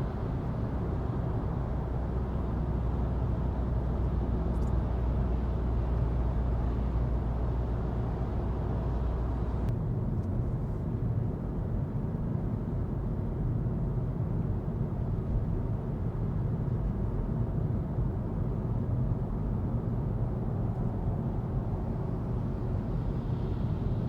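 Cabin sound of a 2025 Volkswagen Golf's 150 hp four-cylinder TDI diesel pulling under acceleration, a steady low drone. About ten seconds in the engine note eases off abruptly, leaving steady engine and road rumble while cruising.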